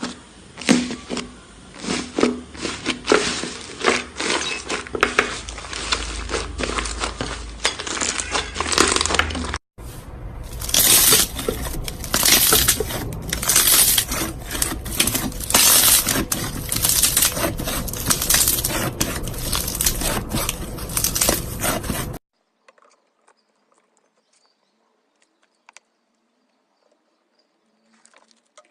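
Slime being squeezed and pressed by hand, making dense crackling, popping and squishing clicks. The sound breaks off briefly about a third of the way in, then goes on louder and brighter before falling to near silence for the last several seconds.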